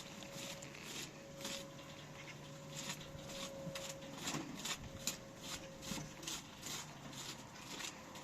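Faint, irregular light clicks and knocks over a low steady hum.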